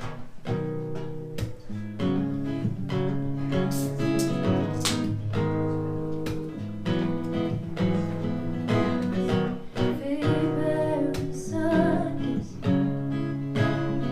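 Acoustic guitar strummed live, playing the opening of a song.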